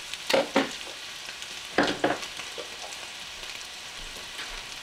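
Chicken and peppers and onions sizzling steadily in skillets, with two short, louder handling noises about half a second in and about two seconds in.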